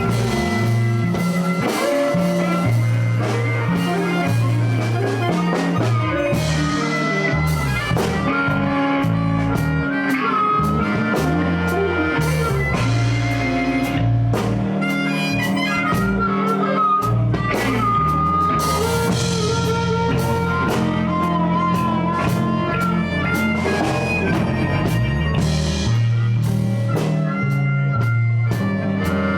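Live blues band playing instrumentally: a blues harmonica over electric guitar, bass guitar and drum kit.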